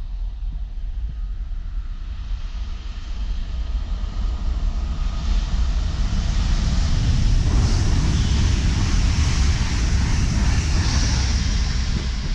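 Electric passenger train approaching at speed and passing, a rising rush of wheel and air noise that is loudest about eight to eleven seconds in, over a steady low rumble.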